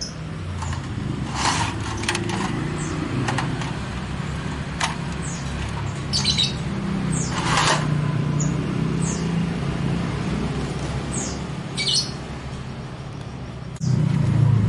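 Small birds chirping: a string of short, high, downward-sliding chirps, each a fraction of a second, at irregular intervals. Underneath runs a steady low rumble that gets louder near the end.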